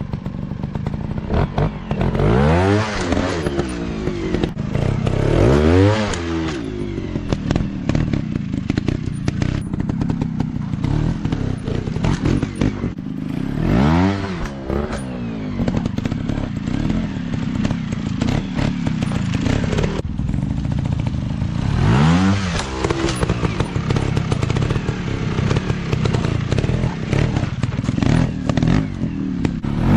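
Dirt bike engines riding off-road, with the revs rising and falling several times as the throttle is opened and eased off.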